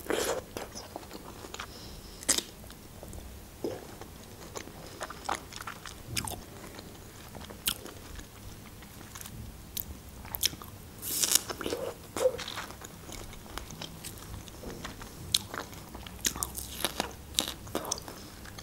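Biting into and chewing fresh strawberries, close to a clip-on microphone: irregular small clicks and mouth smacks.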